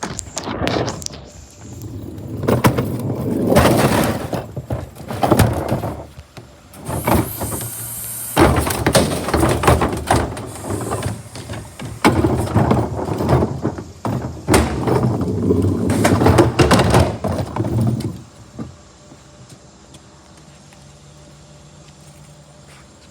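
Garbage truck at work: loud, irregular clattering and crashing that stops suddenly about eighteen seconds in, leaving a quieter steady running sound.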